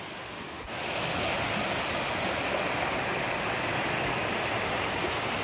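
River water rushing steadily, coming in abruptly about a second in.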